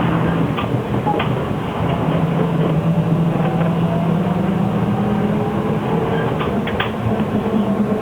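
Shanghai SK5105KGP trolleybus heard from inside while it is underway: a steady drone of electric traction motor and road noise, with low hum tones and a faint whine that shifts in pitch. A few sharp clicks and rattles sound through it.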